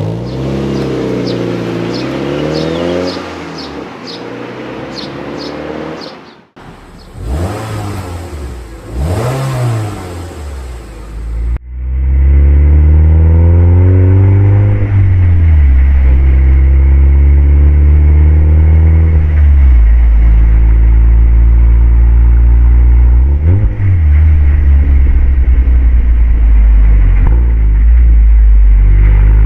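Mazda NC Roadster's four-cylinder engine through an HKS aftermarket exhaust, accelerating and easing off repeatedly, its pitch climbing and falling with each pull and gear change. The sound changes abruptly twice, and after that becomes a much louder, deep, steady drone.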